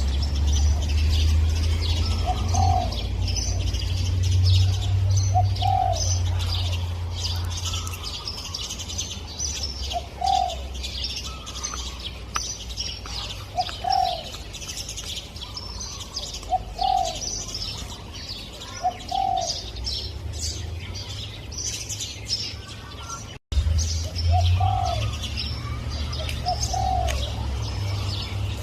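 Spotted dove cooing, short low coo notes repeated every couple of seconds, over the busy high chirping of small birds.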